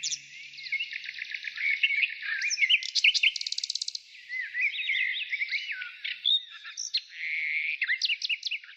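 Songbirds chirping and trilling, several calls overlapping, with a fast rattling trill about three seconds in.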